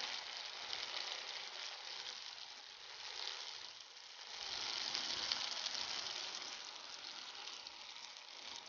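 Banana-flower (vazhaipoo) vadai deep-frying in hot oil: a steady sizzle that dips about four seconds in and swells again.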